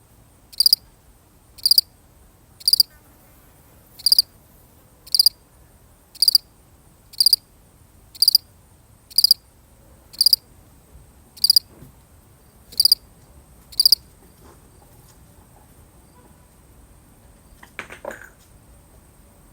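A single cricket chirping, short high chirps about once a second, thirteen in all, stopping about two-thirds of the way through. A brief rustling noise follows near the end.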